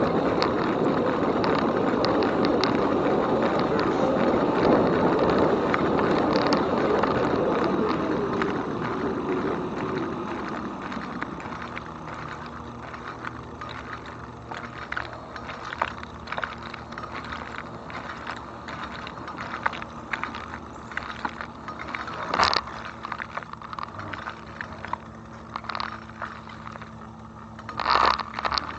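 Bicycle riding along a trail: a rush of wind and tyre noise for the first ten seconds or so, then fading to quieter rolling with scattered clicks and rattles, and a couple of louder knocks near the end.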